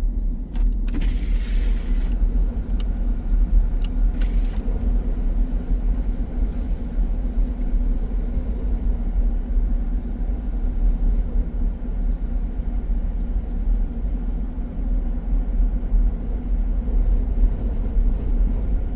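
Steady low rumble of a car driving, heard from inside the cabin: engine and tyre drone, with a short hiss about a second in and again a few seconds later.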